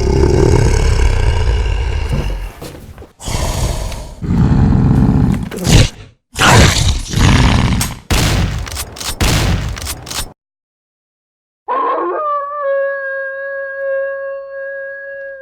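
A creature's loud roars and snarls in several rough bursts, cutting off abruptly about ten seconds in. After a second of silence a single long, steady tone begins.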